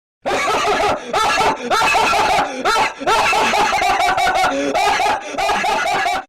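High-pitched laughter in quick repeated bursts, starting a moment in and cutting off abruptly near the end.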